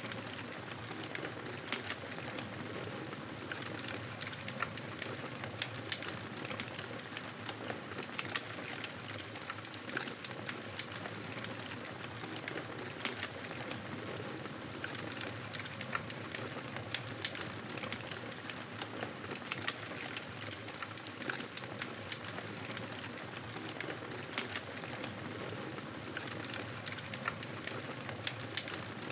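Wood fire in a fireplace crackling, with irregular sharp pops and snaps, several a second, over a steady soft hiss of burning.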